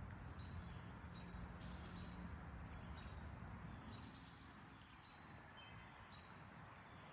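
Faint chirping of crickets, with a low hum that dies away about four seconds in.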